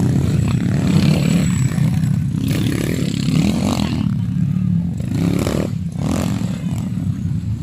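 Motocross dirt bike engines running, revving up and easing off several times.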